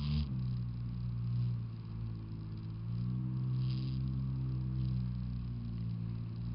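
Jet ski engine running at a steady speed, its pitch easing slightly lower about halfway through and then holding.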